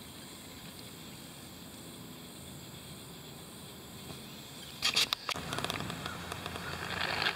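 Faint steady outdoor background with insects. About five seconds in comes a quick burst of clicks, then rustling in dry ground cover as the detectorist moves.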